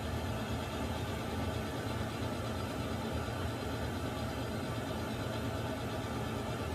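Water heater running with a steady low rumble and even hiss, unchanging throughout.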